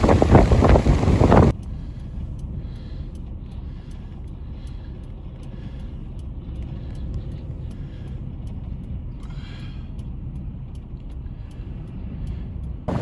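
Strong wind buffeting the microphone, then, about a second and a half in, an abrupt change to a steadier, quieter low rumble of a vehicle engine running.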